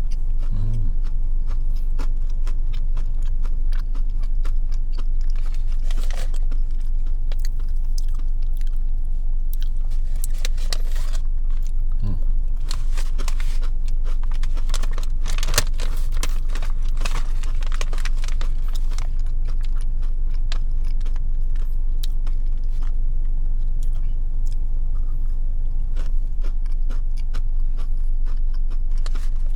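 A person biting and chewing crunchy peanut butter granola bites with chocolate, in many short crunches and crackles. A steady low hum runs underneath.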